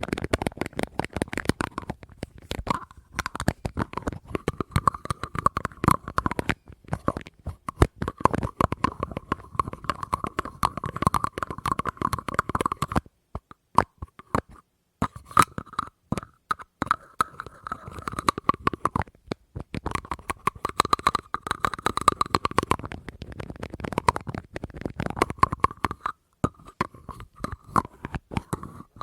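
Fast, continuous tapping on an object that rings with a steady tone, in runs of several seconds broken by brief pauses.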